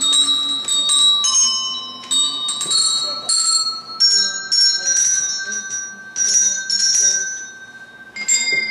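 Tuned hand bells rung one at a time in turn, playing a simple melody. Each note is struck and left to ring, so the tones overlap.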